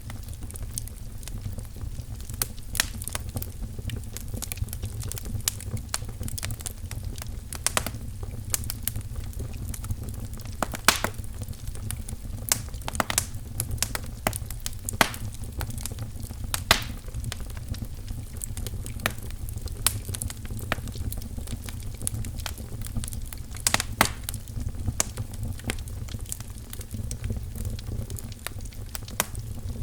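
Wood fire crackling in a fireplace: irregular sharp pops and snaps of burning firewood, a few louder cracks among them, over a steady low rumble.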